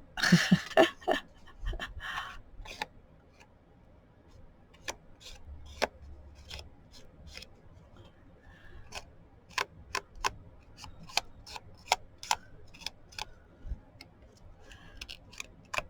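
Ink pad rubbed and dabbed along the edges of paper cutouts: a short scratchy rubbing, then irregular light taps of the pad against paper and table.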